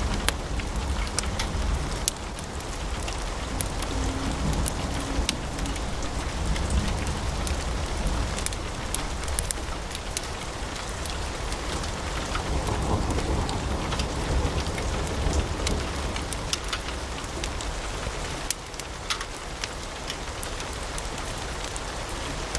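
Wood fire burning in a fireplace: steady flame rush with a low rumble, broken by frequent sharp crackles and pops from the burning logs.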